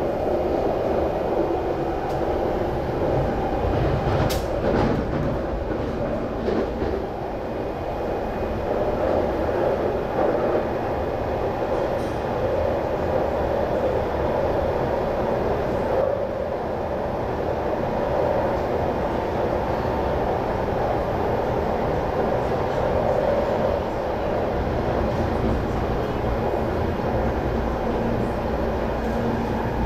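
Cabin noise inside a moving MTR IKK-Train electric multiple unit: a steady rumble of wheels on rails and running gear. A sharp click comes about four seconds in, with a few fainter clicks later.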